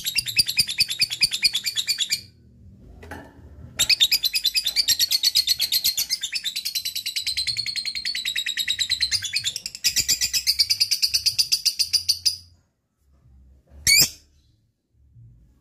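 Lovebird giving its long 'ngekek' chatter: a rapid, rattling string of high chirps in three long runs, the middle one about six seconds, then a single short call near the end.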